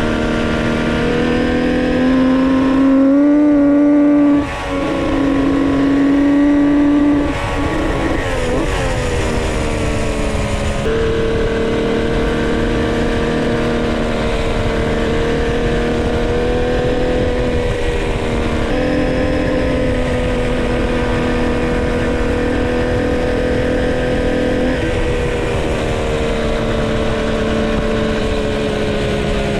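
Homebuilt three-cylinder two-stroke motorcycle engine being ridden during break-in: revs climb for a few seconds near the start, drop for a moment, then settle into a steady cruise with small rises and falls in pitch.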